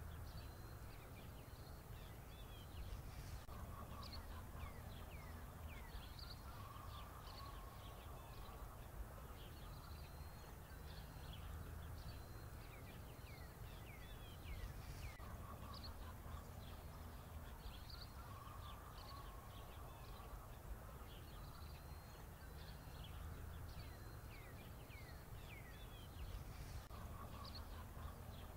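Faint bird chirps over a low hum, the same short pattern of chirps coming round about every eleven or twelve seconds, as in a looped ambient background track.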